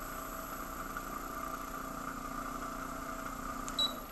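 Power Plate pro6 vibration platform running, a steady mechanical hum that cuts off near the end.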